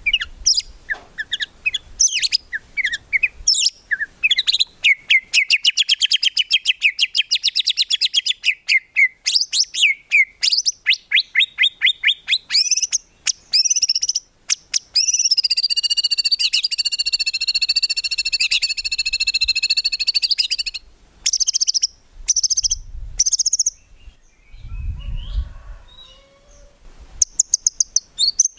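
White-rumped shama (murai batu) singing loudly and without pause, a fast varied song of rapid repeated trill notes and sharp whistled phrases, with one long unbroken buzzy phrase about halfway through. A brief low rumble sounds under the song near the end.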